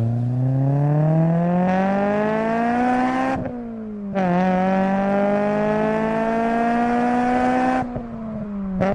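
Car engine accelerating hard through the gears. Its pitch climbs steadily, drops at a gear change about three and a half seconds in, climbs again more slowly, then falls back near the end.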